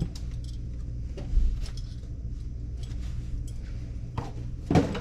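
Tools and small parts clinking and knocking while someone rummages through a tool bag, with a louder knock near the end. A steady low hum runs underneath.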